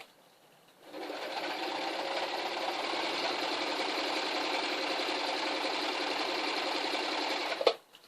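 Electric domestic sewing machine stitching through folded debris netting: starts about a second in, runs steadily for over six seconds, then stops with a click.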